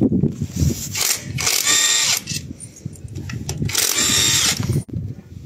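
A power tool run in two bursts of about a second each, working on the three-wheeled motorcycle's clutch while its burnt-out clutch plates are replaced.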